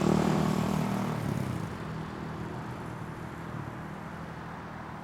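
Dirt bike engine running and fading away over the first couple of seconds as the bike moves off, leaving a steady background hiss.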